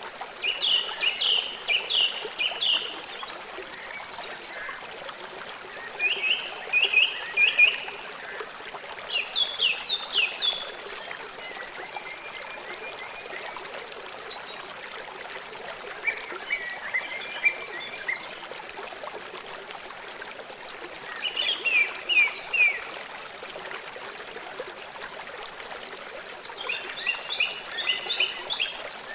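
A songbird singing short phrases of quick, high, repeated notes, one phrase every four to five seconds, over the steady hiss of running water from a stream.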